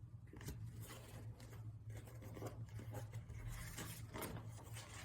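Faint, scattered rustling and light scratching, the handling noise of something being moved or shifted, over a steady low hum.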